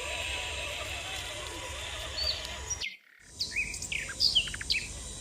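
Birds chirping and calling in short, quick notes over a steady outdoor background, the sound cutting out briefly just before the middle and the chirps coming thicker after it.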